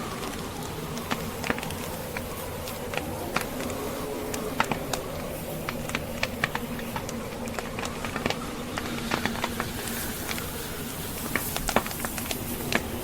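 Wood fire crackling in a fireplace, with many irregular sharp pops, over a steady background of blizzard wind.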